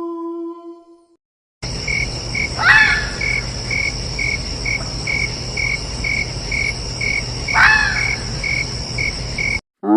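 Crickets chirping: a steady high buzz with a regular chirp about two and a half times a second, and two louder sweeping calls about five seconds apart. It starts about one and a half seconds in and cuts off abruptly just before the end.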